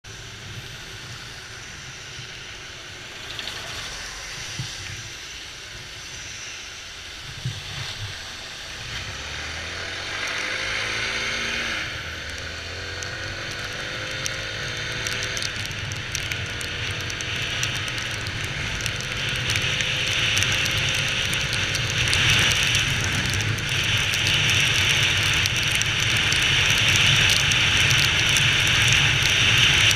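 Honda XR 250 Tornado's single-cylinder engine running as the motorcycle gets under way, its pitch rising between about ten and sixteen seconds in. A hiss builds and the sound grows louder toward the end.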